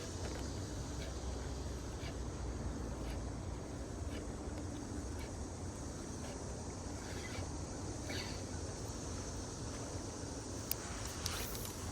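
Steady low outdoor rumble, with a few faint ticks and some sharper clicks near the end.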